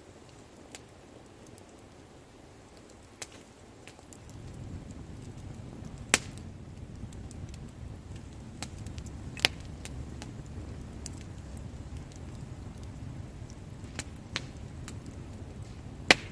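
Wood bonfire crackling, with irregular sharp pops from the burning wood, the loudest about a second apart at a few points. A low, steady rushing noise under the crackle grows louder about four seconds in.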